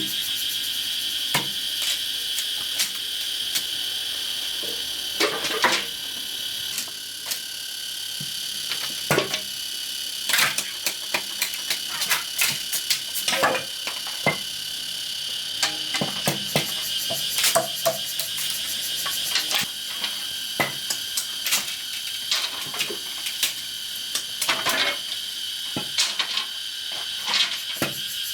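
Insects chirring steadily at a high pitch, with irregular sharp knocks and clicks over them.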